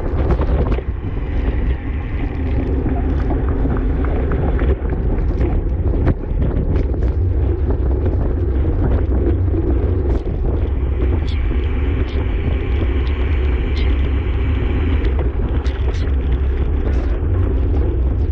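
Wind buffeting the microphone of a camera riding along on a racing bicycle at race speed: a steady low rumble, with road and drivetrain noise from the bike on a wet road underneath.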